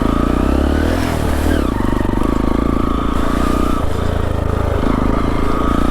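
Motorcycle engine running steadily under load at low speed, its firing pulses close and even.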